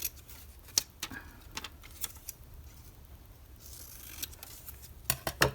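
Magazine paper being handled: soft rustling with scattered sharp clicks and taps, and a louder cluster of clicks near the end.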